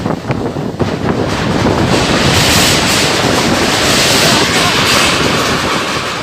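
Strong wind blowing hard across the microphone, with a few sharp knocks in the first second. The gust builds about two seconds in to a louder, hissier rush.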